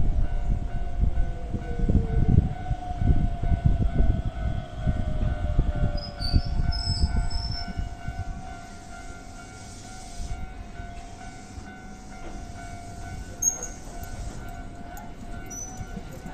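Electric train running on the track: a heavy rumble with repeated clatter over rail joints and a steady whine, dying down about eight seconds in.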